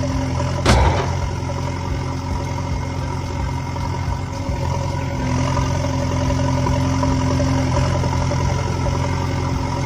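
Mini tractor's engine idling steadily with a low, even hum, and a single sharp knock under a second in.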